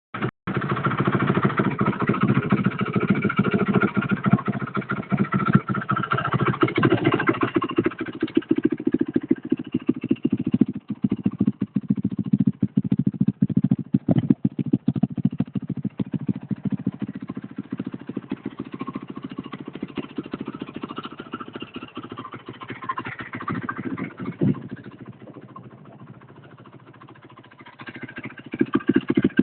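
Yamaha WR450F's single-cylinder four-stroke engine running with a rapid, even firing beat. It is loudest for the first several seconds, then settles lower and drops quietest a few seconds before the end before picking up again.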